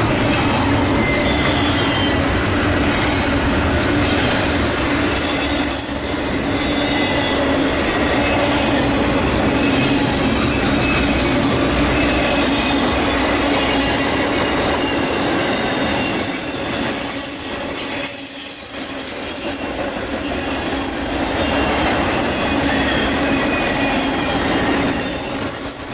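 Fast intermodal freight train rolling past close by: a continuous loud rumble and clatter of double-stack well cars and trailer-on-flatcar cars over the rails. Through it runs a steady squealing tone from the wheels.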